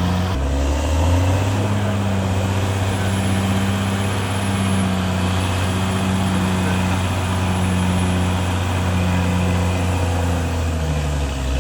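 CAT D6R XL bulldozer's diesel engine running steadily, with a slight shift in pitch about half a second in and again near the end.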